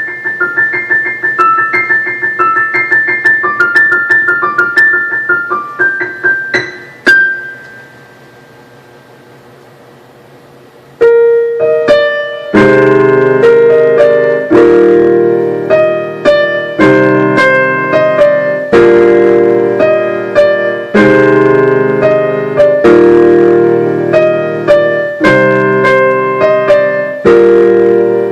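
Piano playing. It opens with a quick run of repeated high notes, then a single note is left ringing and dies away for a few seconds. After that come firmly struck chords about every two seconds, with a melody over them.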